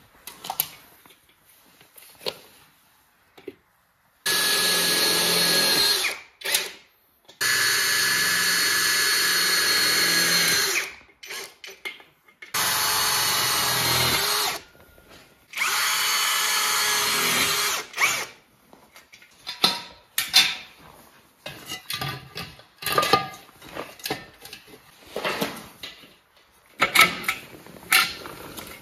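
Power drill driving screws in four runs of a few seconds each. After that come a string of short clicks and knocks.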